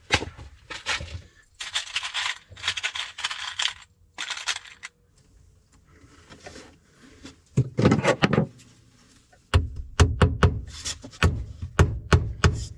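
Close handling noise: rustling and scraping, then a quick run of sharp clicks and knocks in the last few seconds.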